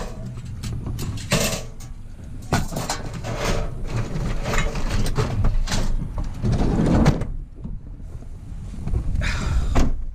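Scrap metal being handled and loaded: a string of irregular knocks and clatters over a steady low rumble, with a lull about seven seconds in before a last clatter near the end.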